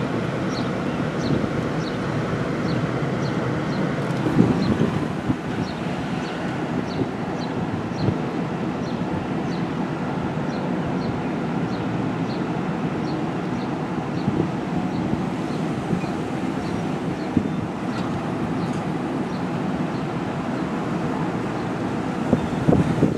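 Steady rushing noise with a faint high tick repeating about every two-thirds of a second.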